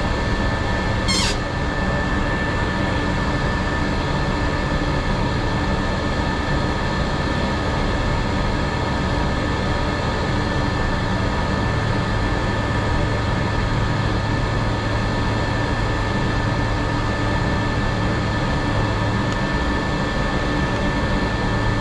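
Steady drone of a jet airliner idling on the ramp, a low rumble under a constant high whine. A brief sweeping whistle about a second in.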